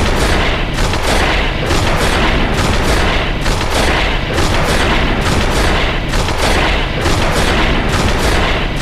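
Swaraj 724 FE tractor engine running hard, loud and distorted, with a rough pulsing of about three or four thumps a second.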